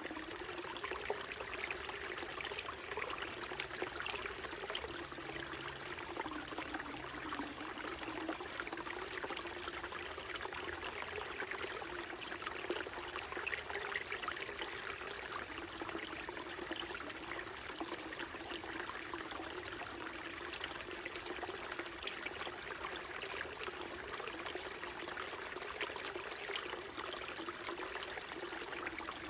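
Small mountain stream flowing steadily, a continuous babble of trickling water.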